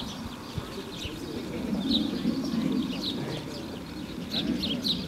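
Small birds chirping in short, high calls at irregular intervals, over a steady low background murmur.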